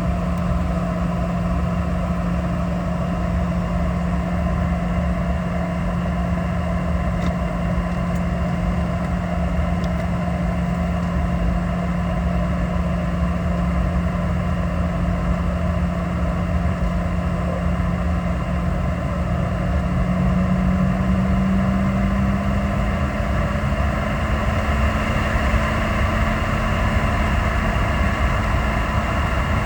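Boeing 717-200's rear-mounted Rolls-Royce BR715 turbofans heard from inside the passenger cabin, running at low power with a steady drone and hum, as during taxi. About twenty seconds in, the hum rises slightly in pitch and gets a little louder.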